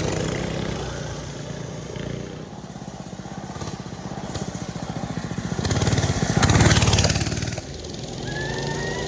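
Small single-cylinder engine running as the machine rides around, growing louder to a peak as it passes close about six to seven seconds in, then dropping off sharply.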